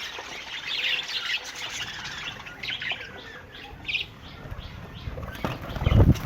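Budgerigars chirping and chattering in a colony, many short high chirps overlapping. Near the end comes a loud low rumble.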